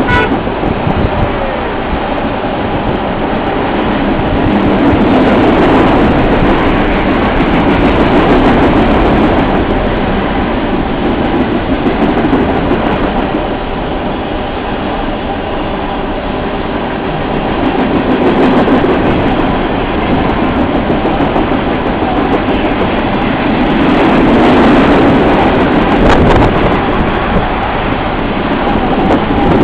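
Freight train's open-top cars rolling past beneath a bridge: a steady rumble and rattle of steel wheels on rail, swelling louder twice.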